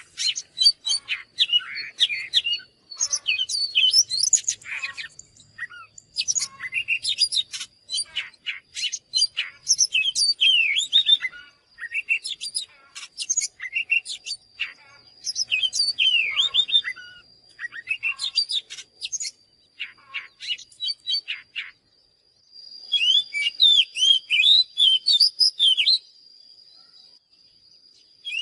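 Oriental magpie-robin singing: a fast, varied run of whistles, chirps and sliding notes in bursts with short pauses, briefly falling quiet a little past the middle. A faint steady high tone runs underneath.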